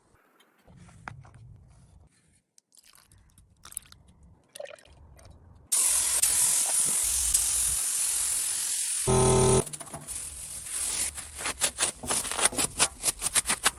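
Faint clicks and knocks of workshop handling, then a loud, steady spraying hiss starts suddenly about six seconds in. A brief deeper pitched burst cuts in after nine seconds, followed by rapid irregular clicks over the hiss.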